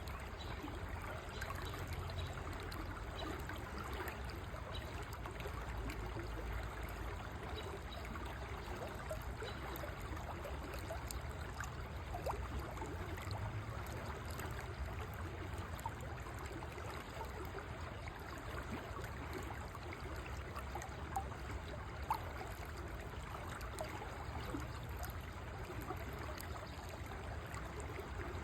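River water flowing steadily: a constant rushing and trickling over a low rumble.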